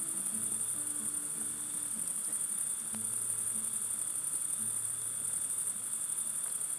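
Crickets chirring in a steady, high, continuous trill through the pause, with faint low notes underneath.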